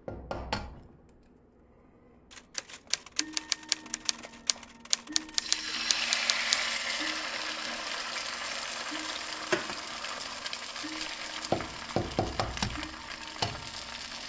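Hot oil crackling and popping in a nonstick frying pan, then a fried egg sizzling steadily in the pan. Near the end come a few knocks as the next egg is tapped open over the pan.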